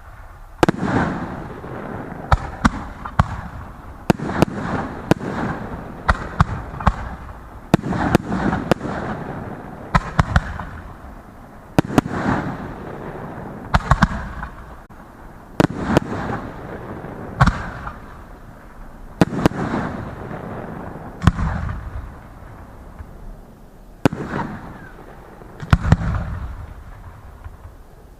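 Fireworks display finale: a dense run of aerial shells bursting, with many sharp bangs, at times several a second, over a continuous rumble and crackle that swells every second or two.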